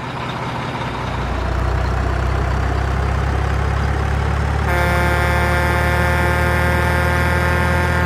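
Diesel truck engine idling steadily. A little past halfway, a truck air horn starts one long, steady blast over it.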